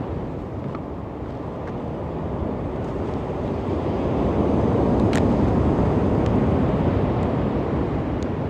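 Waves washing ashore, a steady rush that swells to a peak about halfway through and eases off near the end.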